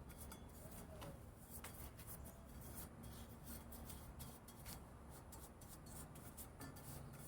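Faint scratching of a paintbrush working rust converter onto a rusty steel wheel rim, with scattered light ticks.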